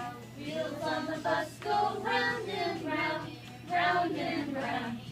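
A group singing together, children's voices among them, in phrases of about a second each.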